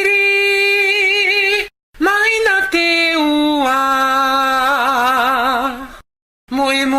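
A Tahitian song: one voice holds long, drawn-out notes with a wavering vibrato and steps down in pitch partway through. It breaks off twice into brief silences.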